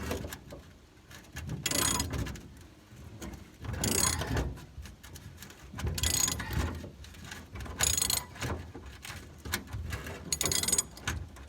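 Hand ratchet wrench clicking in short bursts about every two seconds as the handle is swung back between strokes, backing out a loosened T55 Torx truck bed bolt.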